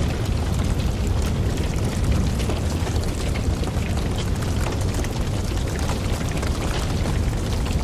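Campfire burning steadily: a constant low rush of flame with many small crackles and pops from the burning wood.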